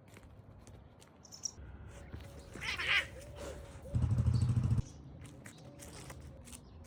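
Cats in a scuffle: a short hiss just before three seconds in, then a loud, low, pulsing growl-like rumble that starts and stops abruptly about four seconds in.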